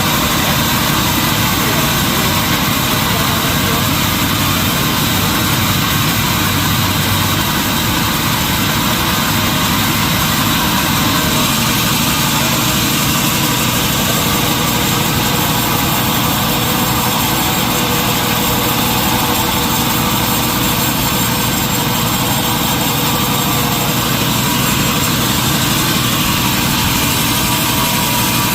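Sawmill machinery running with a steady, unbroken loud noise.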